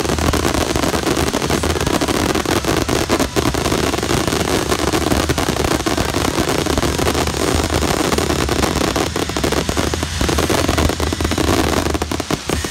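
Fireworks finale barrage: many shells bursting in rapid succession, merging into a continuous loud crackling of reports.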